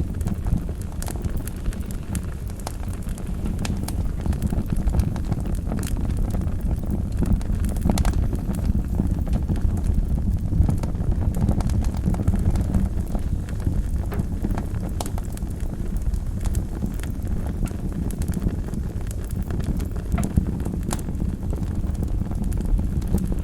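Wood fire burning in a fireplace: a steady low rumble of the flames with irregular crackles and pops throughout.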